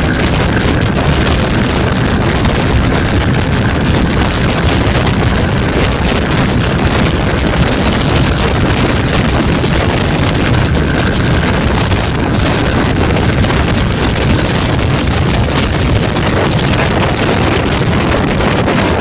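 Motorcycle on the move: steady engine and road noise with heavy wind rushing over the microphone.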